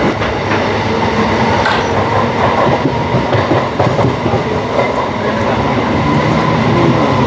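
Local passenger train carriage running out of the station, heard from its open doorway: a steady rumble of wheels on the rails with a thin steady whine above it and a few faint clicks.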